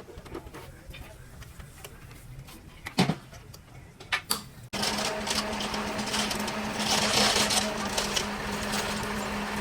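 Scattered knocks and clicks, the loudest about three seconds in, then a steady motor-driven machine starts abruptly near the middle and runs on with a constant hum.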